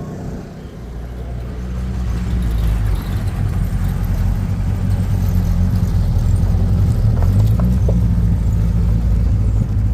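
A car engine running close by, a low steady rumble that grows louder over the first few seconds and then holds.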